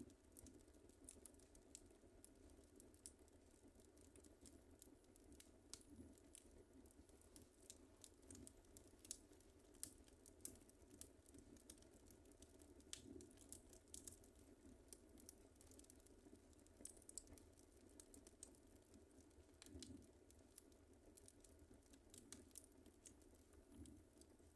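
Wood fire crackling in a fireplace: irregular small pops and snaps over a faint low rumble, with one sharper pop about ten seconds in.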